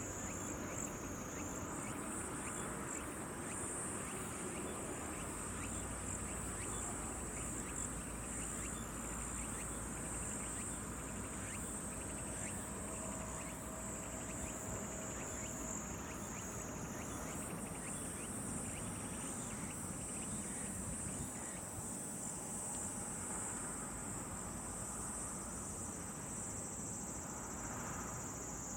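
Steady high-pitched insect chorus shrilling without a break, its pitch shifting slightly up or down a few times.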